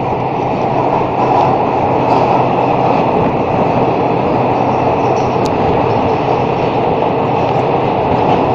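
Passenger express train running through a tunnel, heard from inside the coach: a loud, steady rumble of wheels on rails. One short click about five and a half seconds in.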